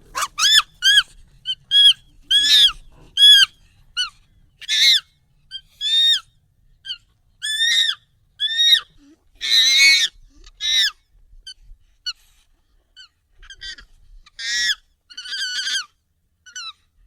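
Monkey calls sped up and pitched up: a string of short, high, squeaky calls, each arching up and down in pitch, at about one a second. About ten seconds in comes a longer, rougher call.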